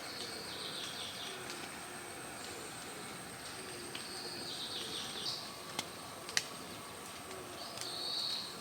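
Quiet outdoor ambience with birds calling: three short high chirping calls a few seconds apart, and two sharp clicks in the second half.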